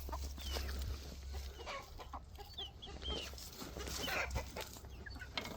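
Chickens clucking and giving short high peeps, faint and scattered.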